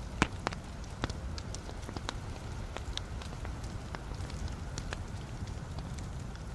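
Wood fire burning in a fireplace, with a low steady rumble of flame and irregular sharp crackles and pops from the logs, the loudest pop about a quarter second in.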